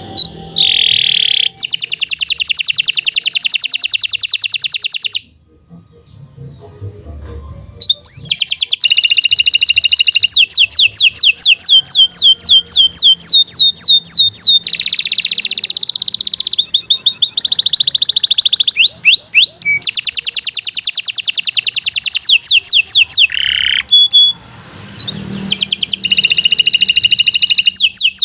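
Domestic canary singing long, fast trills of rapidly repeated high notes. The song breaks off about five seconds in, starts again a few seconds later, and has another short pause near the end.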